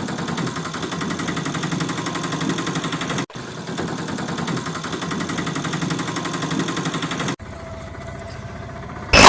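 Engine idling with a steady rapid pulse, in edited pieces that cut off abruptly about three seconds in and again about seven seconds in; after the second cut it runs quieter with a faint steady tone.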